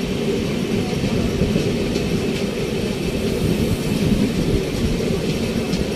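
Steady rumble of train wheels on rail as a moving train passes close alongside a line of open-top freight wagons.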